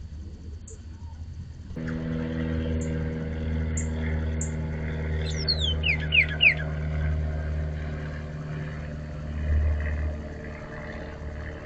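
Northern cardinal singing a quick run of about seven down-slurred whistles about halfway through, with a few short, very high chip notes before and after. A steady low engine-like hum comes in about two seconds in and runs under the song as the loudest sound.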